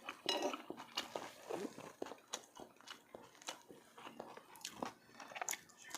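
A person chewing and biting food close to the microphone, giving irregular short clicks and wet smacks.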